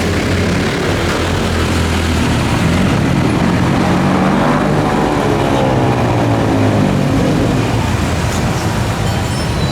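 Busy street traffic with engines running steadily, and a vehicle passing close by about four to six seconds in.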